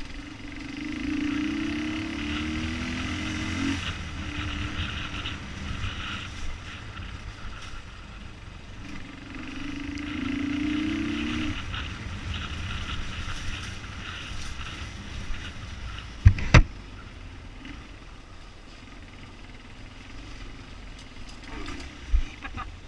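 Motorcycle engines running, rising in pitch twice as they speed up, with two sharp knocks about two-thirds of the way through.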